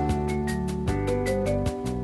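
Background music: a bright pop-style track with sustained keyboard and guitar notes over a steady beat of light percussion ticks, about four a second.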